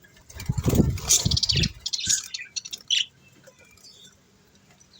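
Pet budgies chirping and chattering in short high calls, with one clear call about three seconds in. In the first two seconds they are mixed with louder low bumps and rustling of handling.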